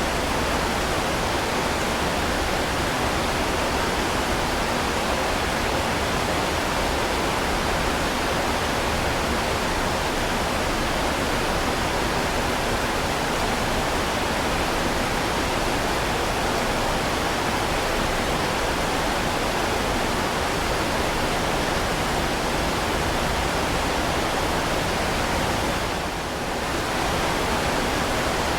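Heavy rain falling, a steady dense hiss with a brief dip in level about 26 seconds in.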